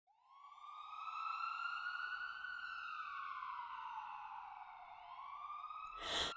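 A siren wailing: one slow rise in pitch, a long slow fall, then the start of another rise. Near the end a short, loud burst of noise cuts across it.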